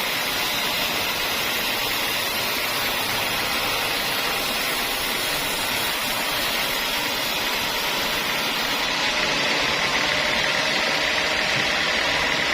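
Sawmill machinery running steadily, a continuous mechanical hum and hiss without breaks.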